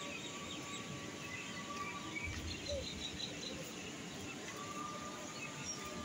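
Faint, short bird chirps over steady outdoor background noise.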